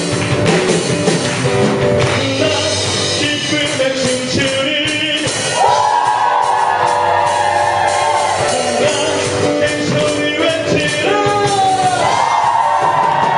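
A live contemporary worship band playing with singing, with a voice holding long sustained notes over the band.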